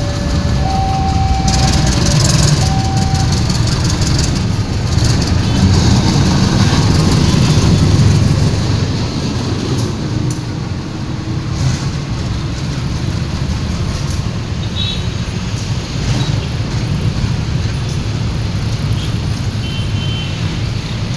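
Pertamina fuel train running past on the rails with a heavy, steady rumble that is loudest in the first eight seconds, then eases off. A steady two-note tone sounds three times in short blasts near the start.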